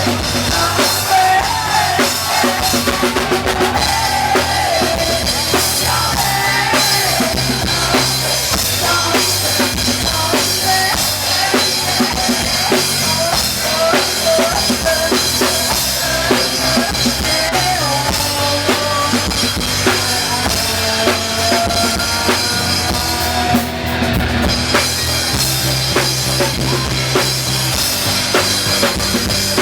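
Rock music played by a band: a full drum kit, with bass drum and snare keeping a steady beat, under a lead line that bends in pitch.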